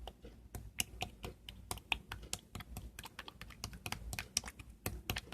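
A quick, irregular run of small sharp clicks and taps, several a second.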